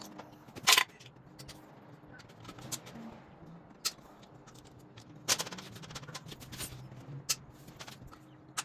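Scattered sharp metal knocks and clanks of hand tools working on a motorcycle engine case, the loudest just under a second in and a few more spread through the rest, over a faint steady hum.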